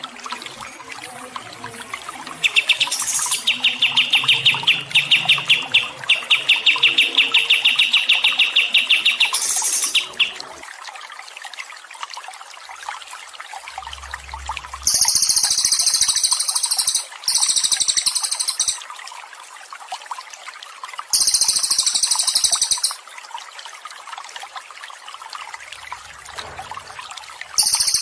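Recorded songbird song over a steady trickle of water: a fast run of repeated chirping notes for several seconds, then several separate bursts of very high, rapid buzzing trills.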